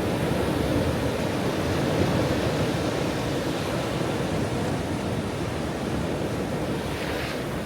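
Ocean surf washing on a shore as a steady, deep rushing, with a brief brighter hiss near the end.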